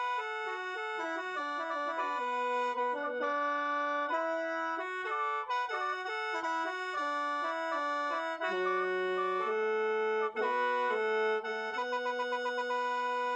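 Khaen, the Lao bamboo free-reed mouth organ, played solo: a stepping melody over a held drone of several notes at once. Near the end it settles on a long held chord with a quick pulsing.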